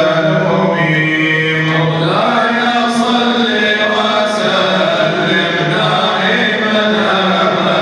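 Male munshid chanting an Arabic devotional nasheed in long, drawn-out notes, the pitch moving to a new note about two seconds in.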